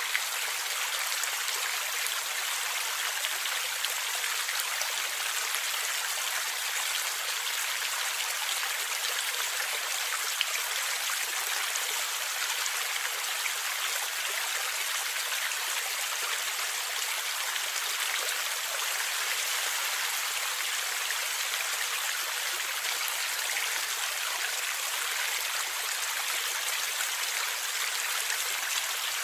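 Stream water flowing and gurgling steadily, a continuous hiss with the energy in the upper range.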